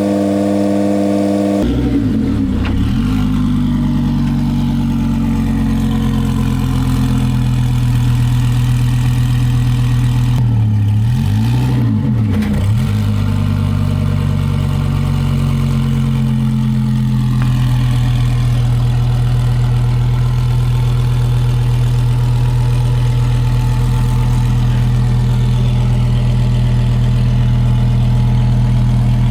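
Twin-turbo Lamborghini Huracán V10 running near idle, steady apart from two brief swings in engine pitch, one around two seconds in and one around eleven seconds in.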